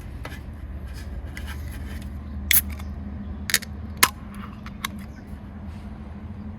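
A few short, sharp clicks and knocks, the loudest about four seconds in, over a steady low hum.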